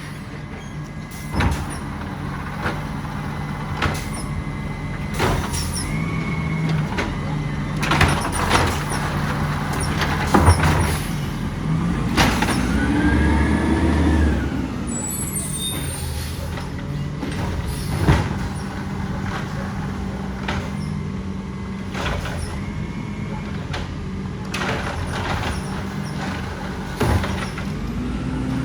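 Side-loader garbage truck's diesel engine running, with repeated knocks and clatter from the automated arm working carts. About twelve seconds in, and again near the end, the engine revs up and back down.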